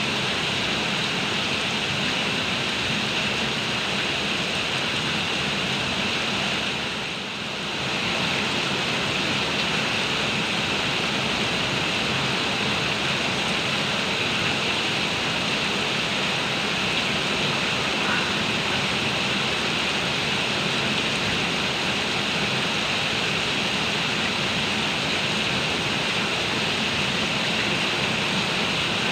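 Heavy rain pouring steadily, a dense even hiss with no separate drops standing out. The level dips briefly about seven seconds in, then returns.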